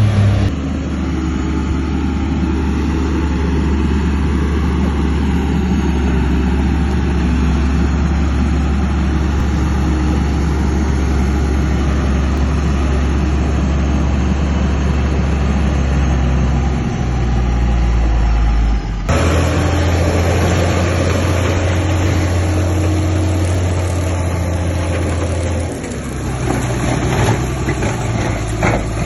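Heavy diesel earthmoving machinery running steadily with a deep engine drone. The note drops lower for a couple of seconds before an abrupt change about two-thirds through. A few knocks sound near the end.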